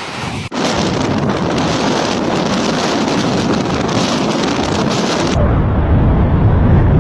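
Rainstorm: a loud, steady hiss of heavy rain and wind, briefly cutting out about half a second in. About five seconds in the hiss thins and a deep, loud rumble takes over.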